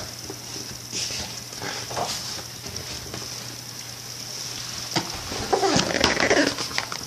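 A few soft clicks and rustles of a picture book being handled and its page turned, over a steady hiss and low hum, with a faint wavering voice-like sound near the end.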